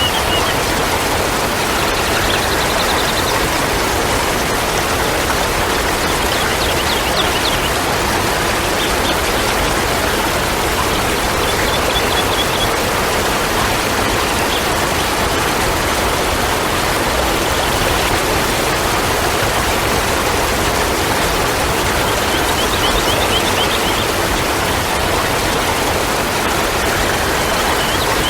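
Steady rushing of running water, a loud even wash, with short high chirping trills breaking through a handful of times.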